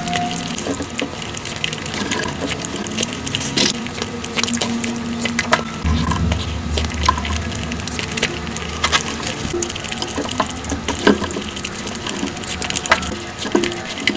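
Close-miked mukbang eating sounds sped up, a dense run of quick wet chewing and smacking clicks as puri is eaten with curry.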